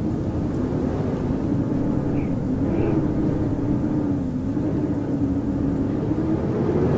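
Howling blizzard wind: a steady rushing gust noise with a low moaning tone that wavers slightly up and down in pitch.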